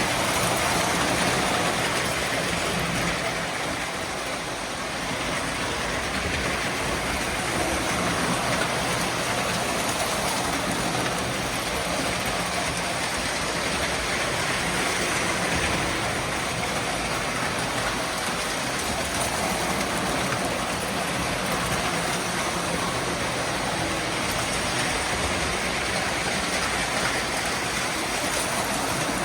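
A train running on its track: a steady rolling rumble and hiss that swells gently every few seconds.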